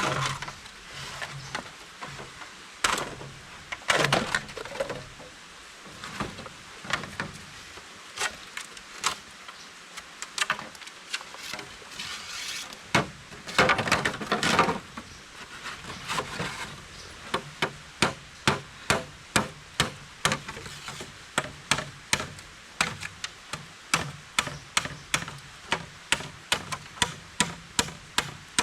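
Repeated sharp knocks of a tool striking wood, irregular at first with a couple of longer scraping stretches, then settling into a steady rhythm of about two blows a second in the second half.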